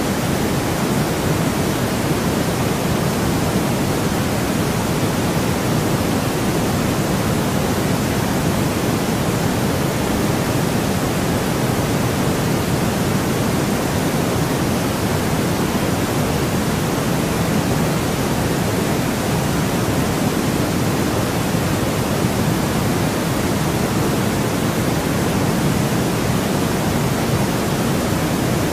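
Steady synthetic noise of the white-noise kind, an even hiss running unchanged, with most of its weight in the low to middle range, which gives it a soft rushing character.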